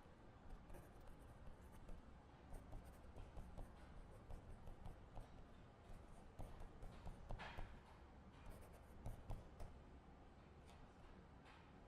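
Quiet writing on paper: light scratches and small taps scattered throughout, with a brief rustle about seven and a half seconds in, over a low room hum.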